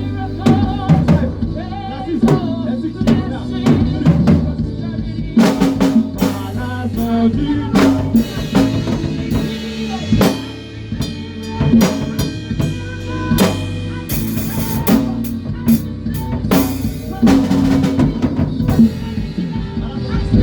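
Live band playing an instrumental passage: a drum kit with kick, snare and repeated cymbal crashes over steady bass notes.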